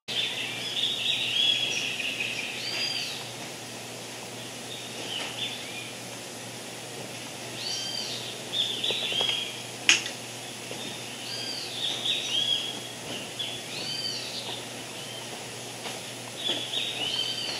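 Wild birds calling in repeated groups of short, arching high-pitched calls every few seconds, over a steady outdoor hiss. A single sharp click sounds about ten seconds in.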